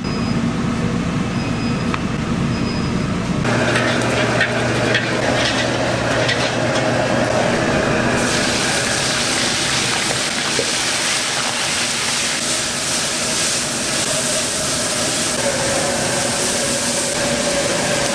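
Restaurant kitchen cooking noise: a steady, loud roar with sizzling and clatter, typical of high-flame wok cooking for jjamppong. The sound changes abruptly about three and a half and eight seconds in.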